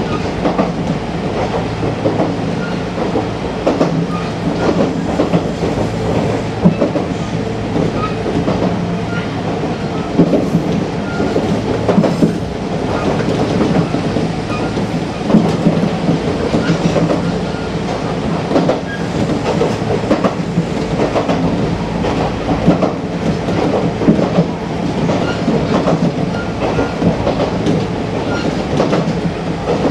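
Kintetsu electric commuter train running along the track, heard from inside the front car: a steady hum from the running gear, with the wheels clicking over rail joints throughout.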